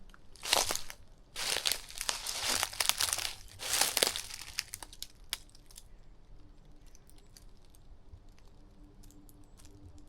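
Footsteps crunching through dry vegetation for about the first four seconds, then fainter scattered crackles and snaps as the steps quieten. A faint steady low hum runs under the second half.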